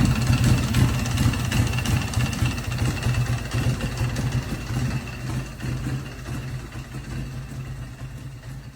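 Custom Harley-Davidson motorcycle engine idling with a fast, uneven pulse, gradually fading away toward the end.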